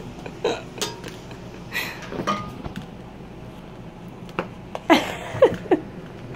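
A puppy knocking a pair of nunchucks about: scattered irregular clacks and knocks, with a few short falling squeaks about five seconds in.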